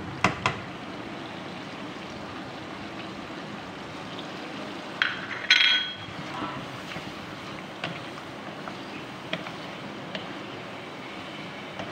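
Chicken, tomatoes, yogurt and spices sizzling and bubbling in hot oil in a karahi, while a wooden spatula stirs and scrapes the mixture against the pan. A few short knocks near the start and two louder scrapes about five to six seconds in stand out over the steady sizzle.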